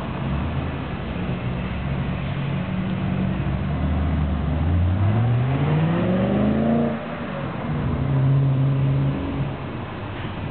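BMW E39 540i V8 through a stainless steel aftermarket exhaust, running steadily, then revving up for about two seconds before the revs drop sharply. It settles into a steady lower note that fades near the end.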